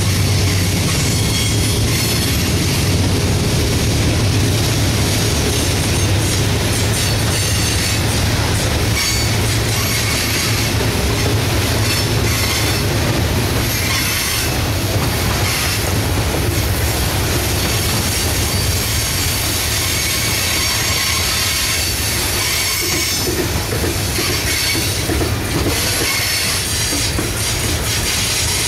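Freight train of coal hopper cars rolling steadily past: a continuous rumble of wheels on rail with clattering over the joints and high-pitched wheel squeal that comes and goes.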